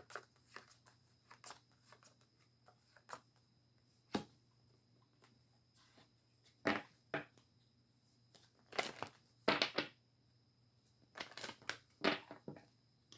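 A tarot deck being shuffled by hand: short, scattered rustles and snaps of the cards with pauses between, in clusters about four, seven, nine and eleven seconds in.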